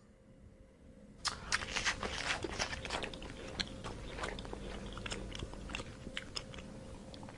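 An animal chewing something crunchy: a quick, irregular run of crisp bites and crunches that starts about a second in and goes on steadily.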